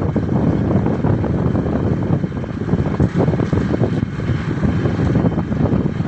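Motorcycle running on the move, with heavy wind buffeting the microphone in a steady low rumble.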